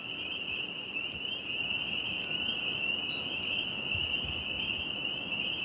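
A steady, high cricket chorus over a low rumble of wind, with a short low thump near the end.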